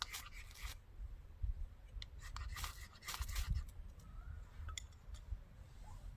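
Several short, dry scraping strokes, a cluster at the start and another around the middle, over a low rumble.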